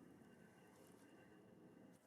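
Near silence: faint low background noise with a few soft ticks.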